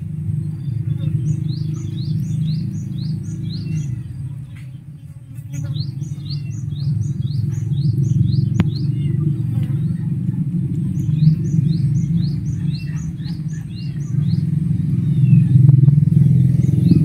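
A small bird singing repeated runs of quick, falling chirps, three times, over a loud, steady low rumble that dips briefly about four seconds in.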